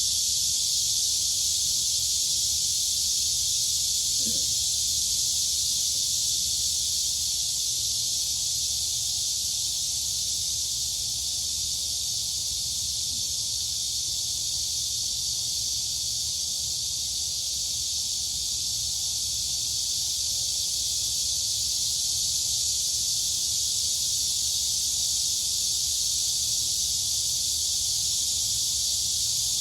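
Dense, steady chorus of crickets and cicadas: a continuous high-pitched shrill that holds an even level throughout.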